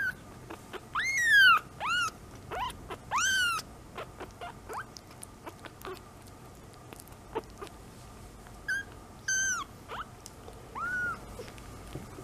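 Baby kitten mewing, a string of high, thin mews that bend downward in pitch. Several come close together in the first four seconds, then three more after a pause filled with small clicks.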